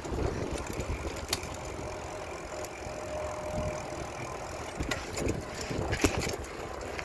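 Road traffic: motor vehicles running past with a steady low rumble, a few sharp clicks and rattles over it.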